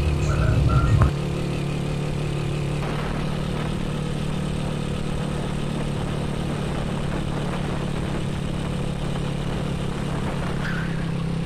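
Motorcycle-with-sidecar engine running at a steady cruising pitch as it rides along a paved road. Wind rumbles on the microphone for about the first second.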